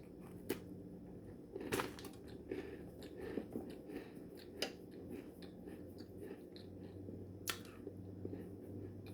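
Someone biting into and chewing a crumbly orange shortbread cookie (polvorón), with a few sharp clicks and soft crunching.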